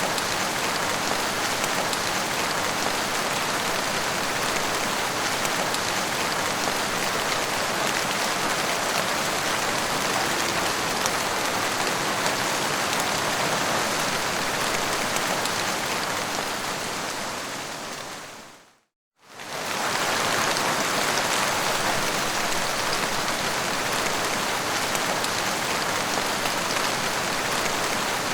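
Steady rain falling on a surface, an even rush of drops. About two-thirds of the way through it fades out quickly to a moment of silence and fades straight back in, as at a loop point in the recording.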